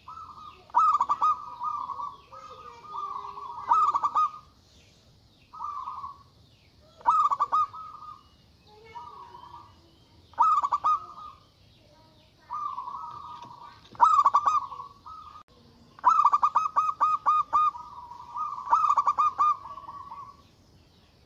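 Zebra dove (perkutut) cooing: about eight phrases of quick, stuttering coos with short pauses between them, some phrases ending in a longer drawn-out coo.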